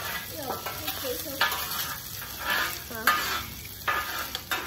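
Food sizzling in a hot pan while a spatula stirs it, with a few sharp scrapes against the pan.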